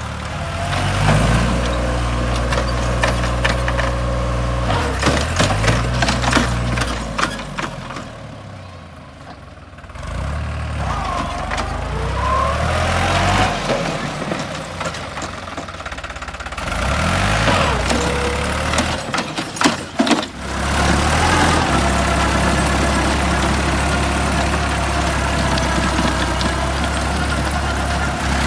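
New Holland tractor's diesel engine revving up and down. It drops away for a couple of seconds about a third of the way in, then settles to a steady speed for the last part.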